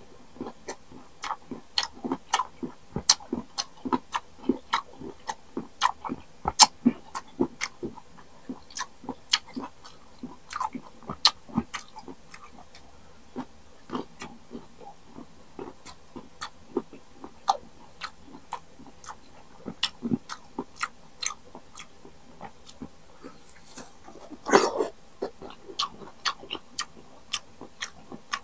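Close-miked chewing of crisp unripe (green) mango: a steady run of sharp crunches and wet mouth clicks, two to three a second, with a longer, louder burst about 24 seconds in.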